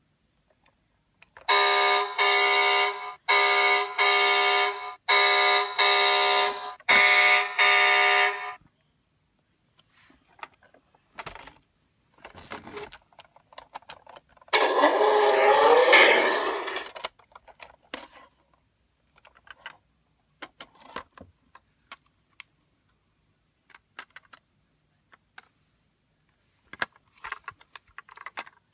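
A 2015 Hess toy truck's electronic sound effects. A loud, steady-pitched alarm-like tone pulses about six times over some seven seconds. A few seconds later comes a shorter sound with a wavering pitch, then light clicks from the toy being handled.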